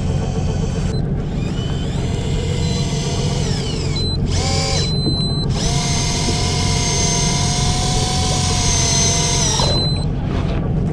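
Small electric motor whining in several spells, the longest held at a steady pitch for about four seconds and then stopping abruptly, over a steady low engine rumble.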